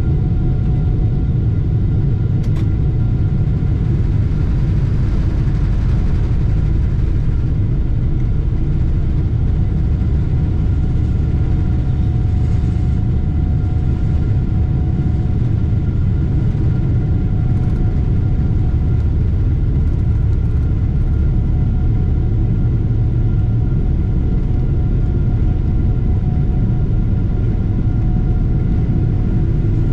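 Boeing 747-8 jet noise: a steady low rumble of the engines and airflow with a faint steady whine above it.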